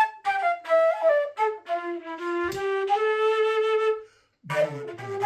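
Flute playing a short phrase of separate notes. About four and a half seconds in, the player hums into the flute while blowing (flute growling), adding a low buzz and a rough, distorted edge.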